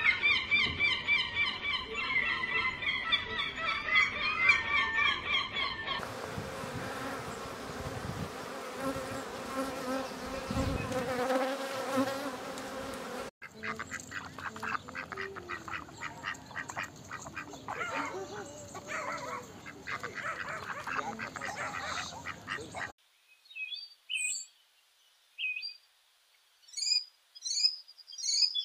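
A run of animal calls: sea lions calling over and over, then a different animal call, then mallard ducks quacking rapidly, then a house sparrow giving short, high, separate chirps.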